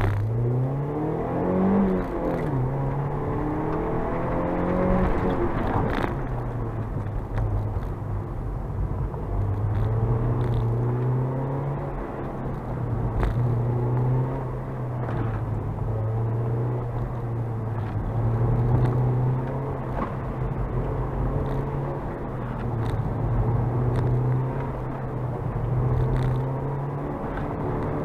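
Mazda MX-5 NC1's 2.0-litre four-cylinder engine under hard acceleration from a standing start, revs climbing and dropping at a gear change about two seconds in, then climbing again. After that the engine note rises and falls over and over as the throttle is worked through the slalom, with a few short clicks.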